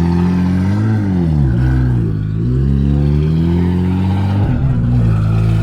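A car engine being free-revved through a very loud exhaust: the pitch climbs and drops several times, then holds steady near the end.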